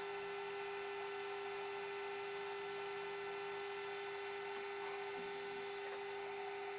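Steady electrical or machine hum: a single mid-pitched tone with faint overtones, holding level without change.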